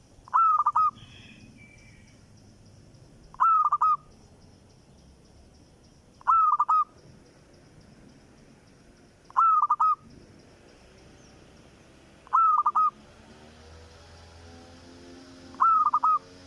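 A bird calling six times at an even pace, about once every three seconds, each call a short, loud phrase of a few quick notes.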